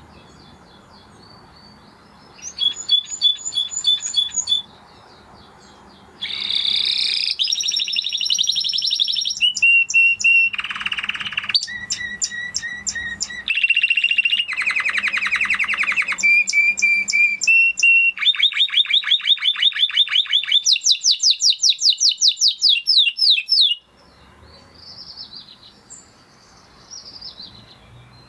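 Spanish Timbrado canary singing. A short trill comes first, then a pause, then a long unbroken run of rapid trills, one after another at changing pitches, for about seventeen seconds. The run stops abruptly near the end, with softer chirps before and after it.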